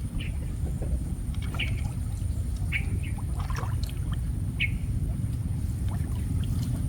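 Water trickling and splashing as a gill net is paid out into a flooded rice field, over a steady low rumble, with a few short high chirps or squeaks scattered through.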